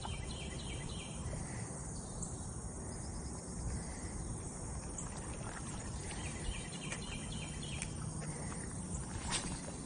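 Steady outdoor background noise with an insect's rapid pulsed chirping, once at the start and again for a couple of seconds about six seconds in. A faint click or two near the end.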